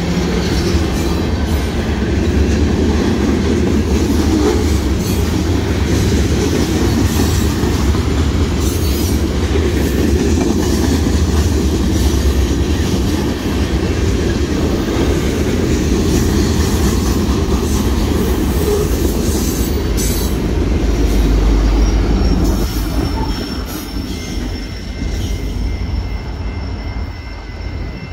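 Union Pacific mixed freight train rolling past a grade crossing: a steady rumble and clatter of freight-car wheels on the rails. About 23 seconds in, the last cars go by and the sound fades away.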